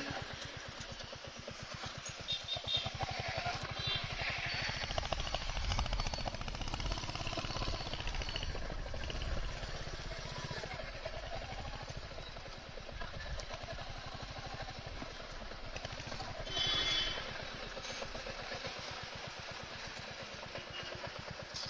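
Motorcycle engine running at a steady pace, then dying away just before the end as it is shut off.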